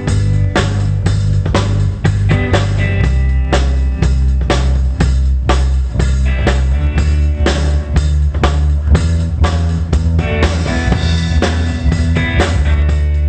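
Pop band playing a song live at a sound check: a drum kit keeps a steady beat of kick and snare under held bass notes and pitched instruments.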